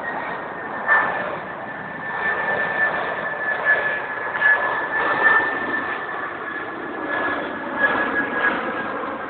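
Jet airliner on approach passing overhead: a steady engine rush with a high whine that sinks slightly in pitch as it goes by. A few short, louder sounds break in along the way.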